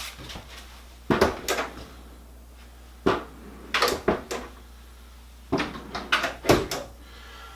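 Electrolux dryer pedestal drawer being pushed in and popped out again, sharp clacks and knocks in four short bursts, the push-to-open latch catching and releasing.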